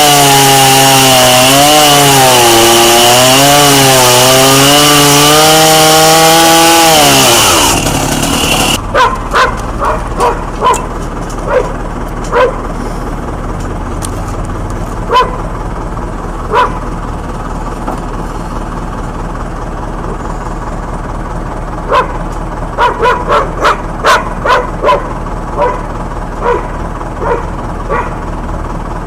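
A chainsaw engine running at high revs, its pitch wavering up and down, then dying away about seven seconds in. After that, a dog barks on and off, with a quick run of barks near the end.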